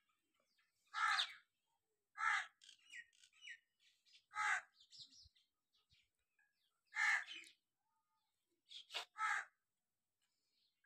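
A bird calling with six short calls, spaced a second or two apart, the last two close together near the end.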